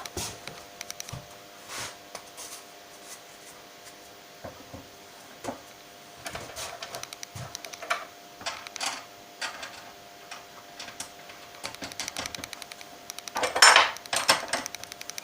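Scattered clicks and clinks of small metal parts being handled while the sanding sleeve on a spindle sander is swapped for a different grit, with a louder scrape near the end.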